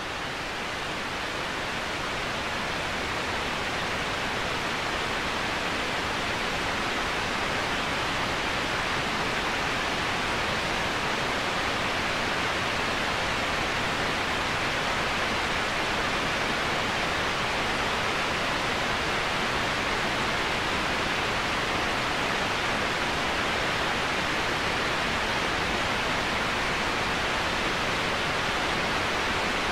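Waterfall: a steady, unbroken rush of falling water, swelling a little over the first few seconds and then holding even.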